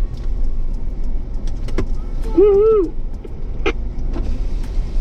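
Vehicle running with a steady low rumble and scattered small clicks and rattles. A short vocal sound a little past halfway.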